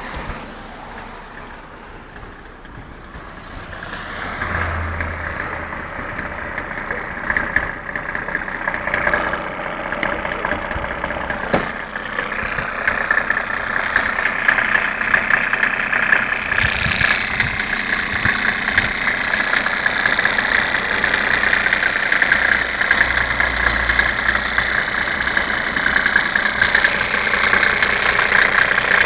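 Mercedes-Benz W140 turbodiesel engine idling cold with diesel knock. It is quieter for the first few seconds, then grows fuller and slowly louder. There is a single sharp click about twelve seconds in.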